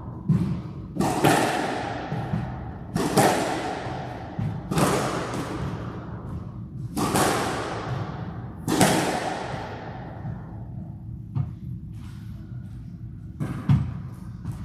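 Squash ball being struck and hitting the court walls, sharp echoing thwacks about every two seconds, giving way to a few softer knocks near the end.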